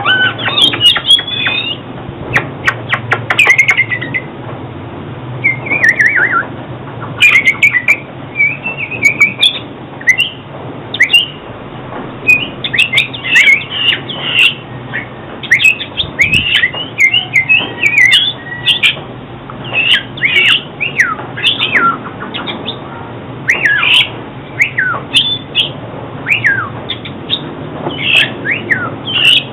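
Oriental magpie-robin singing: a continuous run of varied whistled phrases and quick downslurred notes, with sharp clicks scattered between them.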